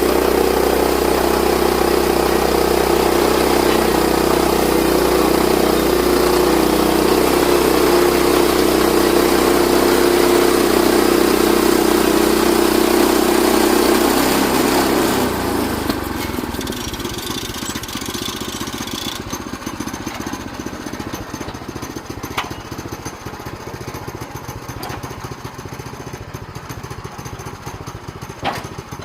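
Portable sawmill's gasoline engine running steadily at high speed, then throttling down about 15 seconds in to a lower, rougher idle.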